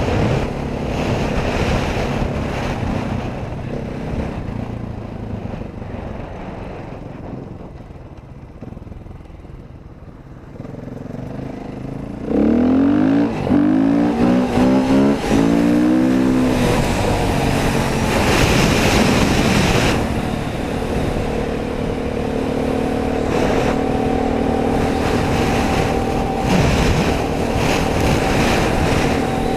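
Dirt bike engine running while riding. It eases off and runs lower for a few seconds, then about twelve seconds in it revs hard, with quick rises and falls in pitch as it is worked through the gears, and it stays on the throttle after that.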